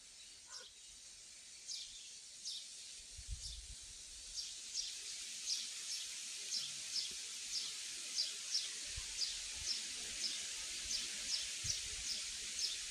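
Outdoor ambience: a steady high-pitched hiss with a bird's short falling chirp repeated about two or three times a second, becoming regular a few seconds in, and a few soft low thumps.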